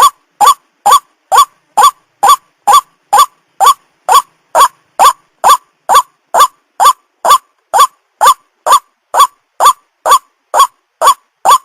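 White-breasted waterhen (ruak-ruak) calling: one short note repeated at a very even pace, about two a second.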